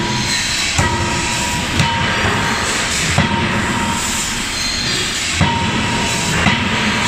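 CNC die forging hammer striking five times at uneven intervals of one to two seconds, some blows followed by a short metallic ring, over a steady mechanical noise.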